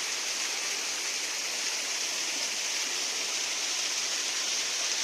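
Running water, a steady unbroken rush like a stream or cascade.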